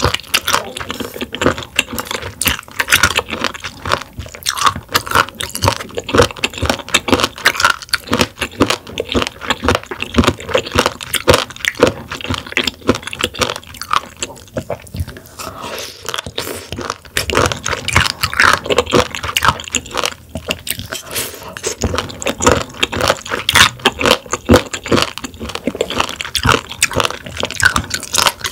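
Close-miked chewing of raw warty sea squirts: a dense run of crunching bites.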